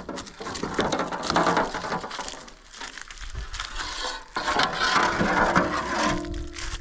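Irregular rustling and crunching, like dry material being handled, in uneven bursts.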